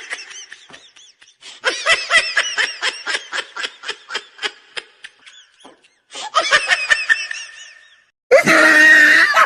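A woman laughing in a long run of short bursts, breaking off twice and coming back louder near the end.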